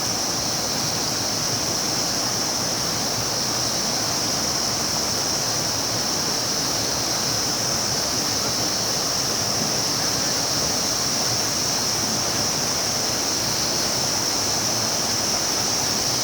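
Steady rush of a river's flowing water, with a continuous high-pitched hiss or buzz running over it.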